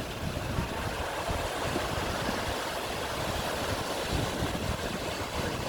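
Steady wash of sea surf along the shore, with wind buffeting the microphone.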